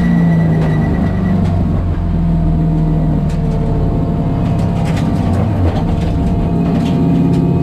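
Coyote V8-swapped Ford Mustang race car's engine heard from inside the stripped cabin, running at low revs as the car slows from about 50 to about 20 mph, with a few light clicks and rattles.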